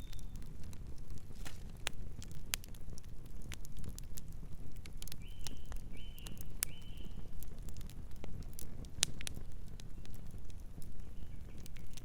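Campfire crackling, with sharp pops scattered irregularly over a steady low rumble; a bird gives three short chirps about five to seven seconds in.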